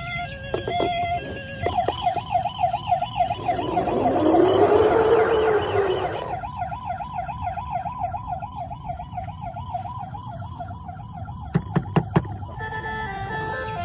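Electronic toy siren wailing in a fast warble, broken in the middle by a burst of noise with a rising-then-falling tone. A few sharp clicks come near the end, then a short electronic tune begins.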